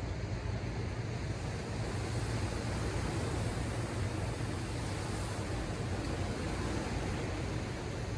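Ocean surf washing ashore as a steady rush of noise over a low rumble. The surf swells about two seconds in and eases off near the end.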